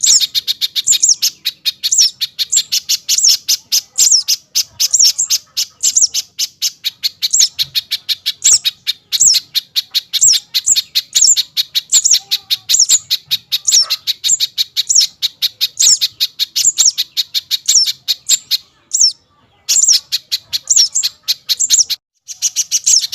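A small bird chirping rapidly and insistently, short high chirps at about five a second, broken by two brief pauses near the end.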